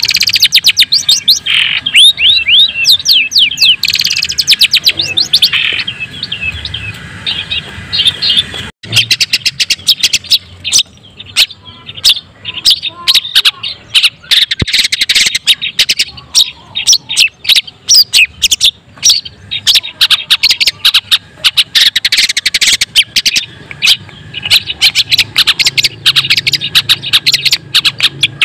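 Long-tailed shrike (white-breasted cendet) singing a loud, fast, unbroken stream of sharp chirps and harsh notes, with a brief break about nine seconds in.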